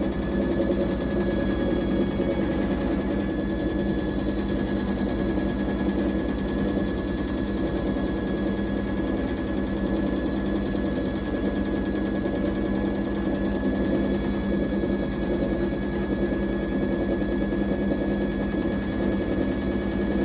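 Fisher & Paykel MW059NZ washing machine running, a steady motor hum with a thin high whine over it.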